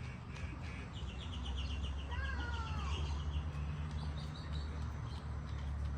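A bird's rapid chirping trill, about eight notes a second, running for two seconds or so, then a shorter, higher trill, over a steady low rumble.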